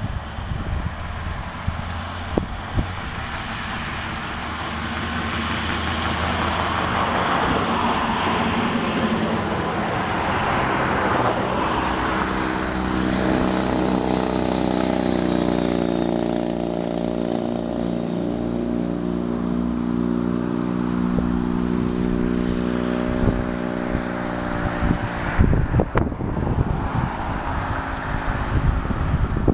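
2005 Triumph Thruxton 900 air-cooled parallel twin with a one-off exhaust (cut-down, wrapped Bonneville header with crossover and stubby cans) riding by: the engine note builds, drops in pitch about halfway through as the bike goes past, then holds a steady note for several seconds before fading into rougher noise near the end.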